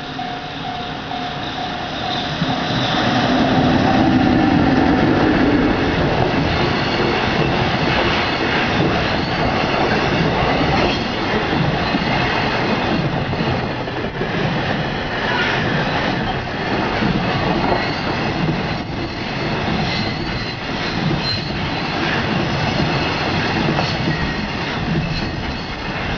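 A freight train passing at speed: the EF65 electric locomotive goes by loudest a few seconds in with a low hum, then a long string of container wagons follows with a steady rumble, clattering over rail joints and some wheel squeal.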